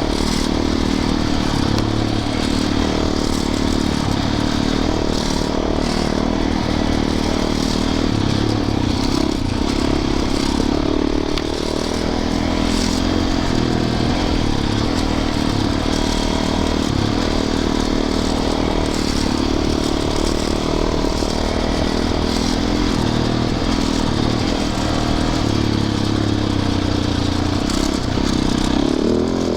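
Yamaha YZ450FX's single-cylinder four-stroke engine running under way, its pitch wavering a little with the throttle, with scattered clatter and knocks from the bike over rough ground.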